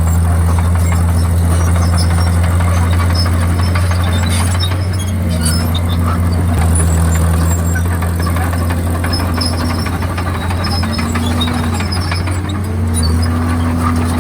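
Komatsu D51PX crawler bulldozer working, its diesel engine running steadily, with a higher tone above the drone that dips and rises several times.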